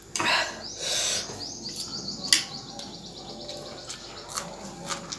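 Two short noisy rushes near the start, then a bird's rapid chirping trill that lasts about two seconds, with a single sharp click, the loudest sound, in the middle of it.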